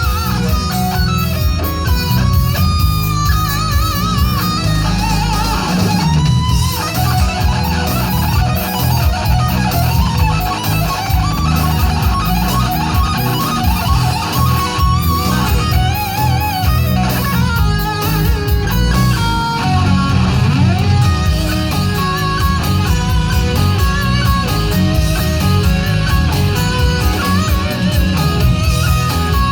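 Live rock band playing an instrumental, led by an amplified electric guitar whose held lead notes waver with wide vibrato.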